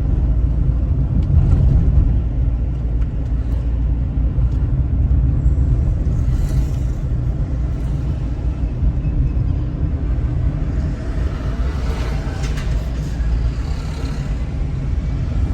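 Steady low rumble of a moving car, engine and tyres on the road, with a faint hiss swelling briefly about six seconds in and again near the end.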